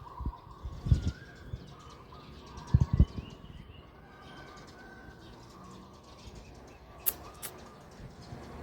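Birds calling in short repeated phrases, with dull thumps about a second in and again around three seconds in, and two sharp clicks near the end.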